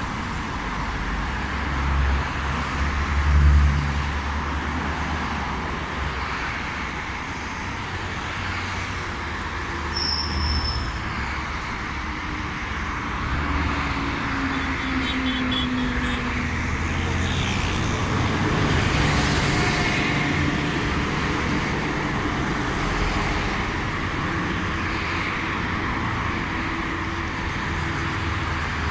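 Steady urban road-traffic noise with the low rumble of passing motor vehicles, swelling briefly a few seconds in and again a little past halfway.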